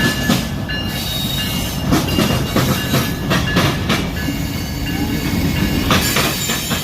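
Train passing close by: a steady rumble of rolling cars with repeated clacks of the wheels over rail joints, and a thin high steady tone over it.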